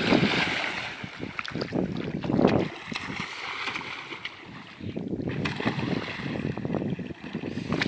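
River water splashing and lapping, in uneven bursts with no steady engine note.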